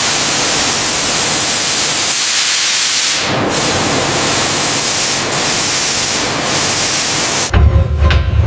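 A loud, steady spraying hiss that breaks off briefly about three seconds in, then stops abruptly near the end, where music with deep drum-like thumps comes in.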